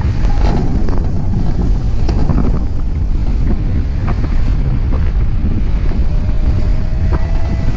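Strong wind buffeting the microphone: a loud, steady low rumble. A faint thin whistle rises slightly near the end.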